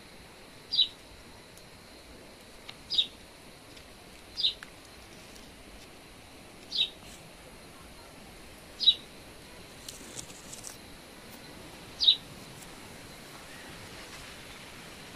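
A bird calling a short, high chirp six times, about two seconds apart, over a faint outdoor background.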